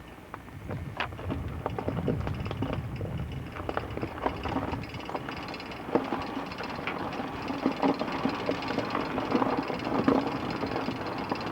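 Vehicle rolling slowly on an ice-covered, gravelled road, with a low running rumble and constant irregular popping and cracking from the tyres on the ice.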